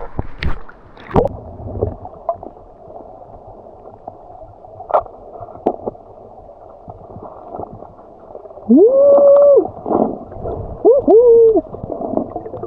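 Muffled underwater sound of a swimmer diving: a steady wash of water with a few knocks. About nine seconds in there is one long rising, held call, then two shorter bent calls, a voice heard through the water.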